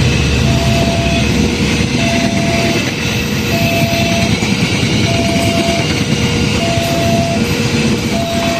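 Argo Semeru passenger train running past a level crossing: a loud, steady rolling rumble of the train. Over it the crossing's warning alarm alternates two tones, high then low, about once every one and a half seconds.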